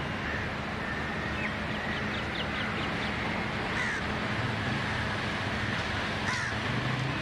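Outdoor ambience: a steady background hiss and low hum with birds calling over it. There is a quick run of short chirps about two seconds in, then a louder falling call in the middle and another near the end.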